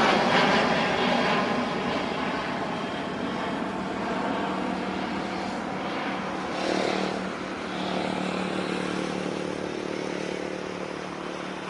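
Garuda Indonesia airliner's engines at takeoff power, a broad roar that fades steadily as the aircraft climbs away.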